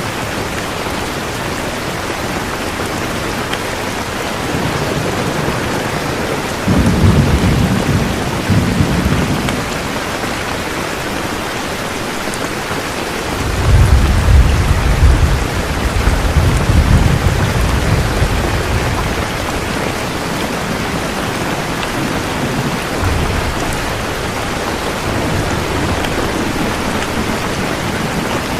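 Steady rain, with thunder rumbling low under it: a rumble starts sharply about seven seconds in, a longer one swells from about halfway for several seconds, and a weaker one follows later.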